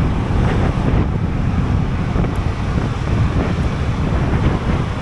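Steady wind buffeting on the microphone of a riding Sym Jet X 125 scooter, with the scooter's engine and road noise underneath.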